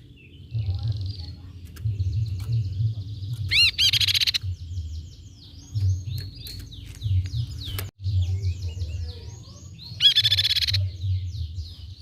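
Grey-cheeked tit-babbler (tepus pipi perak) calling busily: a dense run of high chirps and short rising and falling notes. Two loud, rapid rattling trills stand out, one about four seconds in and one near ten seconds, over a low uneven rumble.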